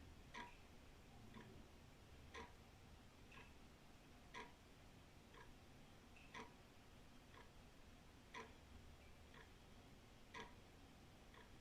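Old wall clock ticking steadily, one beat a second, a louder tick alternating with a softer tock.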